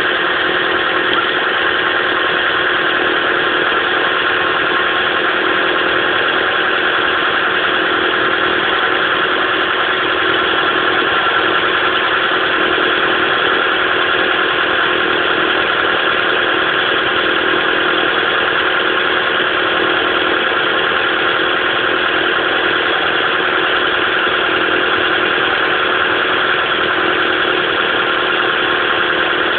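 Mitsubishi Pajero Mini engine running at a steady high idle with a misfire.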